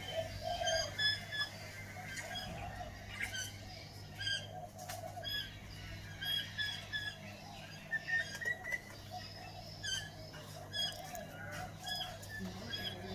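A flock of small wild birds chirping busily, with many short high notes overlapping throughout, and a few sharp clicks among them.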